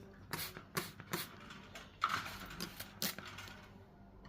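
A hand spray bottle misting a cockatiel: a string of sharp clicks and taps from the trigger, with a short hiss of spray about two seconds in.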